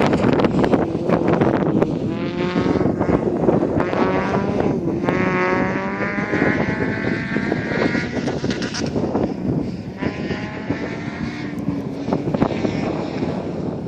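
Toyota pickup truck engine under hard acceleration on an autocross course, rising in pitch several times and dropping back between the pulls.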